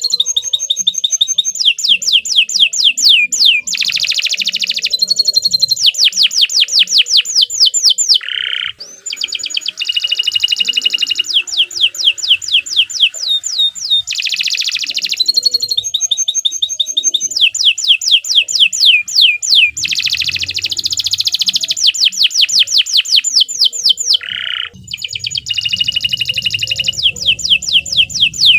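Domestic canary singing a long, loud, continuous song of rapid trills. Each phrase is a quick run of high notes sweeping downward, mixed with held steady notes, with short breaks about 8 and 24 seconds in.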